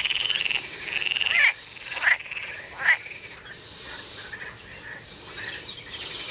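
Frogs croaking: a long pulsing call in the first second and a half, two short sharp calls soon after, then fainter croaking.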